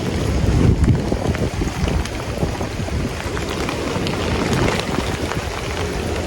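Strong storm wind gusting against a phone's microphone as a loud low rumble, with rain and scattered sharp ticks of raindrops.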